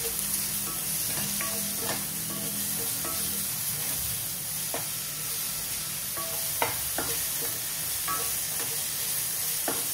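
Onion and tomato masala sizzling in a frying pan as it is stirred, the utensil knocking sharply against the pan a handful of times.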